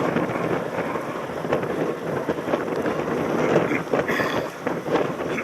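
Wind buffeting a helmet-mounted camera microphone on a moving mountain bike, with a steady rush and many quick rattles and knocks from the bike over rough ground.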